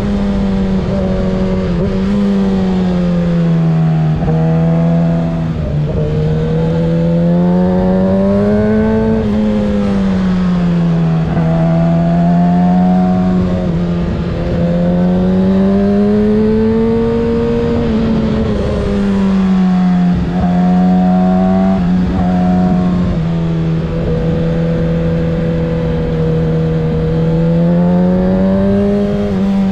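2024 Kawasaki ZX-6R 636's inline-four engine breathing through a Graves exhaust while the bike is ridden. Its pitch rises and falls in slow swells every few seconds as the throttle opens and closes through the bends.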